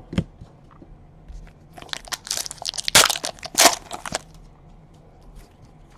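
The wrapper of a 2017 Donruss Baseball card pack crinkles and crackles as it is torn open. The rustles come in a run from about two to four seconds in.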